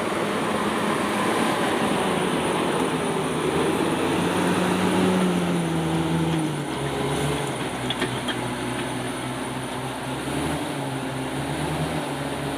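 Komatsu D68ESS crawler bulldozer's diesel engine running steadily. About halfway through its pitch drops and it settles into a lower, quieter run, with a few faint clicks around then.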